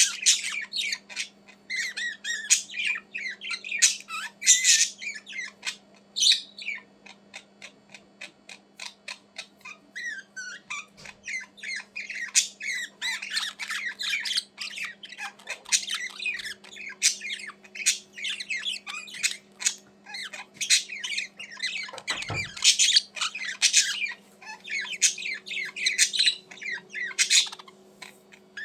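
Pet budgerigars chattering and squawking, many quick rapid calls in bursts with a short lull partway through, over a faint steady hum.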